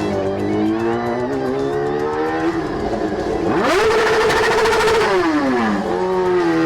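Motorcycle engine accelerating. The revs climb slowly, then rise sharply about three and a half seconds in and hold high, and fall away again about five seconds in.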